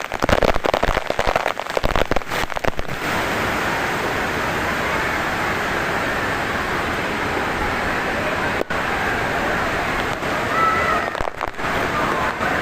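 Steady rush of falling or flowing water, with rapid crackling over the first three seconds.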